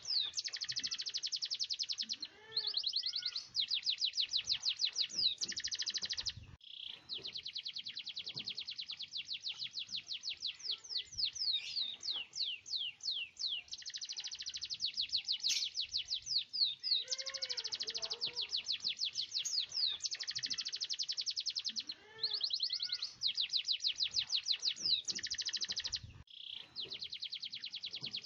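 Domestic canary singing in long, rapid rolls of quickly repeated high notes, broken by a few slower sweeping notes and two short pauses.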